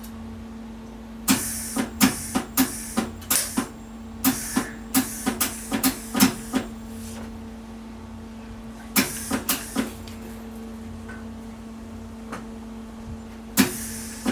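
Welder striking a series of short, crackling arcs that start and stop every half second or so, over a steady electrical hum. The welding keeps breaking off, with a run of bursts, a pause, a few more, then one near the end.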